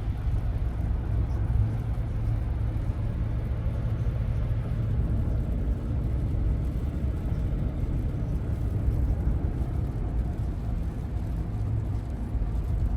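Steady low rumble of road and engine noise inside the cab of a 2024 Ram 1500 pickup with a Hemi V8, cruising along the road.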